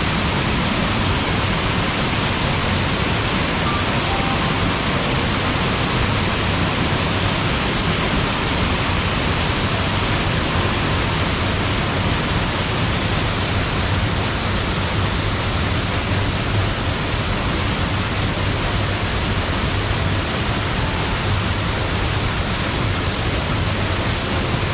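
Waterfall pouring and splashing into its pool: a steady, even rush of water.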